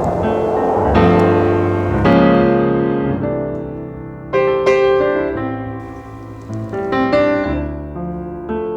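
Piano playing a slow piece: notes and chords struck and left to ring and fade, with fresh chords about every second or so.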